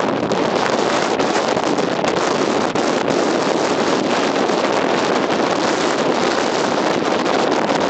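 Strong blizzard wind blowing steadily across the microphone, a dense, unbroken rush.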